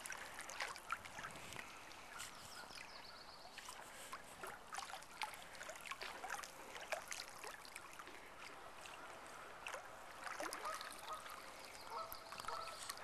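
Faint lakeshore sounds: distant waterfowl calling now and then, with light scattered ticks and splashes.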